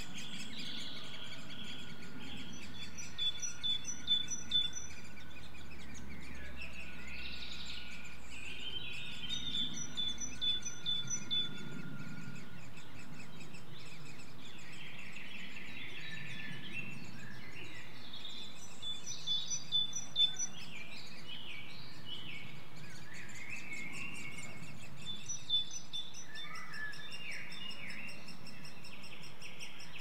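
Woodland birdsong: a songbird repeats a short phrase of quick high notes four times, several seconds apart, with other birds calling, over a steady outdoor hiss.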